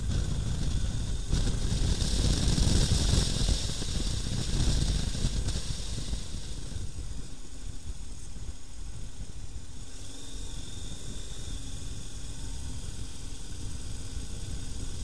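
KTM 1090 R motorcycle on the move: a heavy rush of riding wind with a low rumble beneath, loudest in the first few seconds and settling to a quieter steady level after about six seconds.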